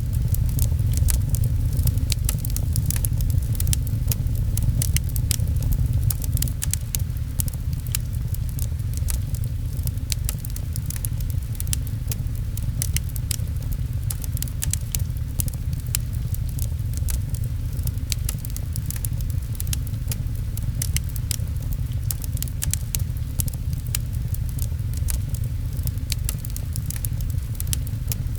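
Wood fire crackling in a fireplace, a dense run of sharp pops and ticks, over rain patter and a steady low rumble.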